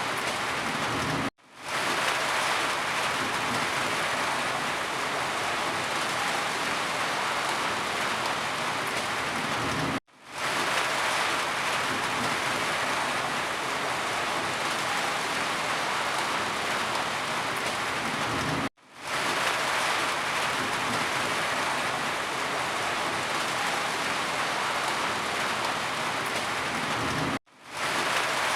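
Steady, heavy rain falling on a surface. The sound drops out suddenly four times, about every nine seconds, and fades back in each time, like the seam of a looped recording.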